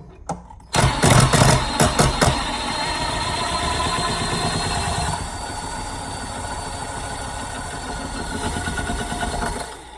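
Ryobi 18V cordless impact driver hammering as it drives a big screw. It starts about a second in, is loudest and roughest for the first second and a half, then runs steadier for about seven seconds and stops just before the end.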